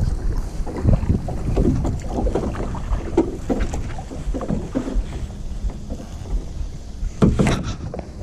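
Kayak paddle strokes swishing and splashing through the water, uneven in rhythm, with wind rumbling on the microphone underneath. One sharper, louder stroke comes about seven and a half seconds in.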